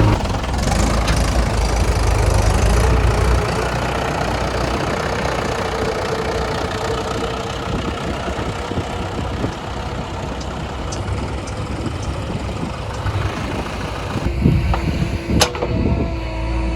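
Diesel engine of heavy earthmoving or farm machinery running, with a few sharp knocks near the end.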